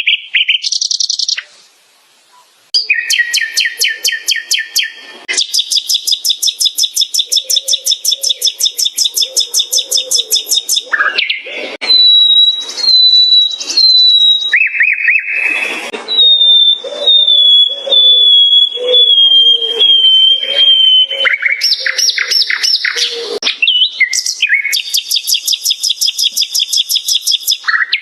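Nightingale singing: a run of varied phrases, mostly fast trills of rapidly repeated notes, with whistled notes between them and a short pause about two seconds in.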